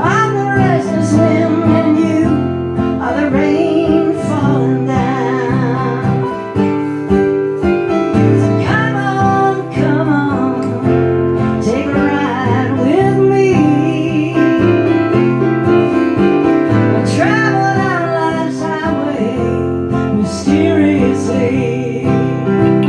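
A woman singing with acoustic guitar accompaniment, live; her held notes waver with vibrato.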